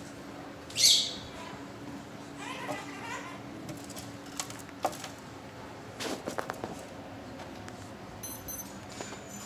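A caged bird gives one loud, sharp, high squawk about a second in, followed by softer chattering calls, with scattered clicks and taps from cage and bird movement over a faint steady hum.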